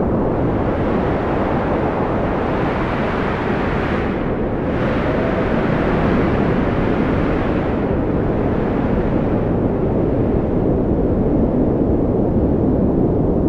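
Strong wind blowing in a steady, deep rush, with a faint whistling tone rising and falling about five seconds in.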